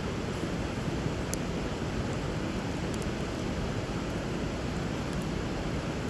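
Steady rushing of a flowing river, with a few faint, sharp pops from a wood fire burning over the water.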